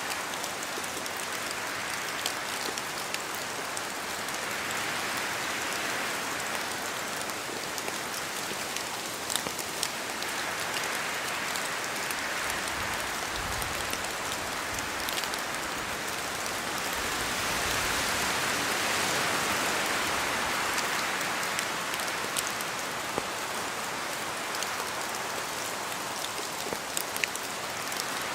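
Steady rain in a forest, with drops falling from the trees and ticking sharply here and there, while gusts of wind through the trees swell and ease every few seconds. A low rumble comes in around the middle.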